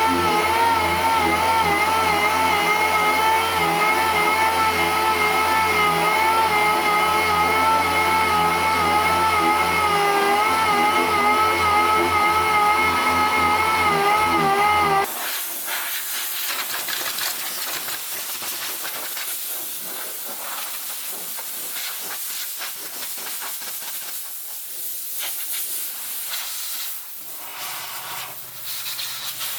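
A steady sound of several sustained, slightly wavering tones, likely background music, cuts off abruptly about halfway. A steady hiss of compressed air from a body-shop air tool follows, typical of a spray gun applying primer-surfacer.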